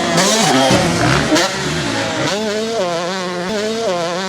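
Motocross bike engines revving hard and accelerating, their pitch rising and falling and wavering rapidly with the throttle.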